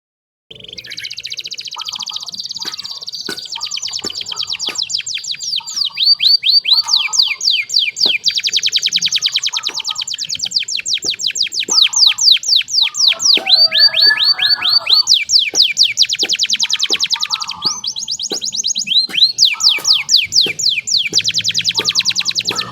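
Domestic canary singing a long, loud song of fast trills and rapidly repeated sweeping notes, switching to a new phrase every second or two.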